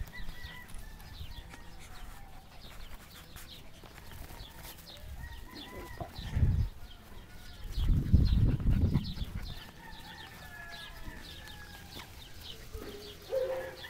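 Bird calls in the background, short chirps and clucking calls scattered throughout. There are two bursts of low rumbling noise, a short one about six seconds in and a longer, louder one about eight seconds in.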